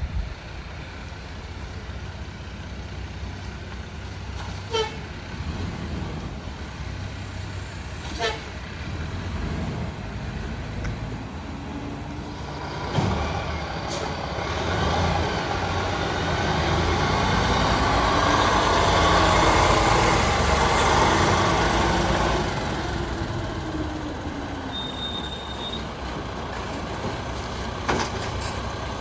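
International HV garbage truck running steadily, its engine swelling in level and pitch for several seconds past the middle and then settling back, with a few short sharp squeaks and clicks.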